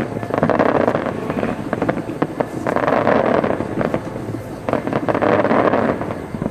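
Aerial fireworks shells bursting in three waves of dense popping and crackling, each about a second long.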